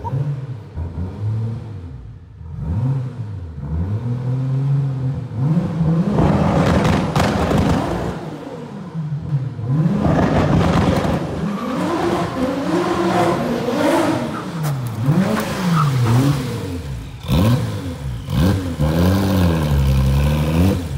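Porsche 964 911 Turbo's turbocharged flat-six, through a titanium exhaust, revving up and down over and over. For a few seconds about six seconds in it holds a steady note under a rapid crackling stutter, typical of a two-step launch control limiter.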